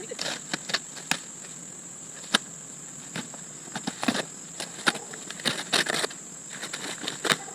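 Irregular crackles, snaps and rustles of kayak packaging being handled and pulled apart, over a steady high-pitched tone.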